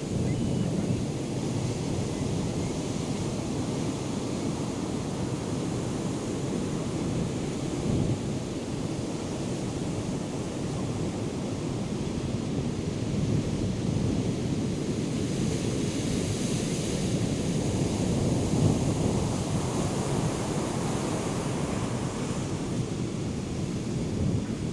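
Ocean surf from a hurricane swell, a steady rushing wash, with wind buffeting the microphone. The hiss of the surf grows louder for a few seconds around the middle of the stretch.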